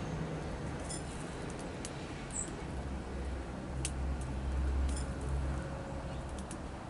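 Small songbirds at a feeder giving scattered short, high chirps, about one a second, over a low steady rumble.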